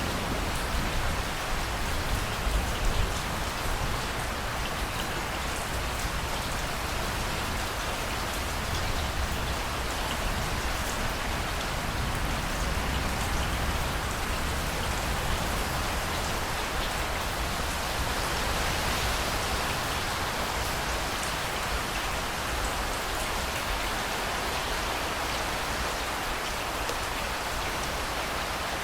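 Heavy rain falling steadily, with a low rumble in the first few seconds.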